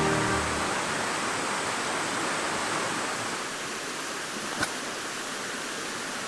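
Music ending within the first half second, then a steady rushing outdoor hiss with one sharp snap about four and a half seconds in.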